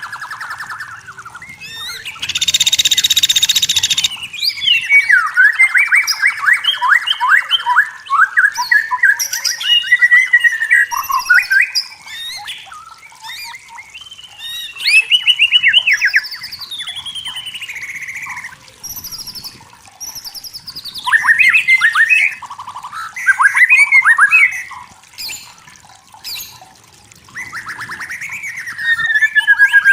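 White-rumped shama singing: a varied run of clear whistled phrases, fast trills and rising and falling notes, with short pauses between phrases. A harsh rasping note comes about two seconds in.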